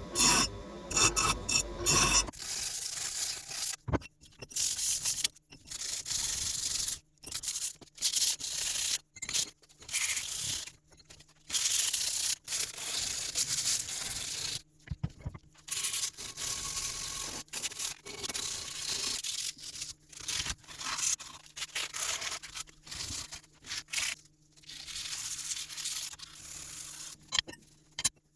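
Abrasive rubbing on a workpiece in repeated strokes of one to three seconds, broken by short gaps, over a faint steady hum.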